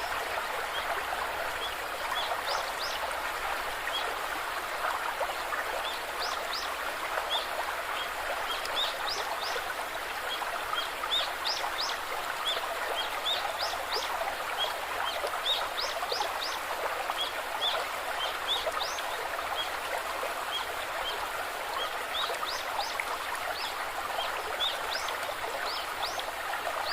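A stream running steadily, with small birds giving many short, high chirps over it.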